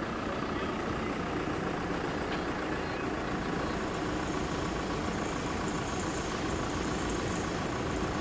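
A heavy vehicle engine running steadily, slowly getting louder. From about three seconds in, a faint, fast, high-pitched ticking joins it.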